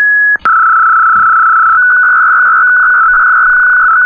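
A loud, steady electronic beep: a brief higher tone, then about half a second in a lower tone held for nearly four seconds before it cuts off suddenly.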